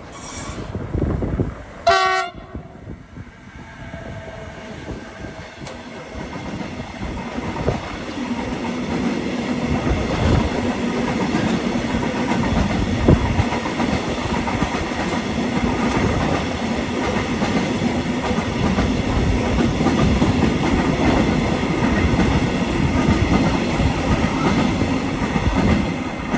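A train sounds a short horn blast about two seconds in, then passes close by, its wheels running over the rails in a steady rumble that grows louder about eight seconds in and holds.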